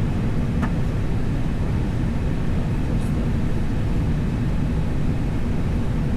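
Steady low rumble of an airliner's running engines and cockpit air systems, heard from inside the flight deck while the aircraft sits on the ground after engine start. A faint click comes about half a second in.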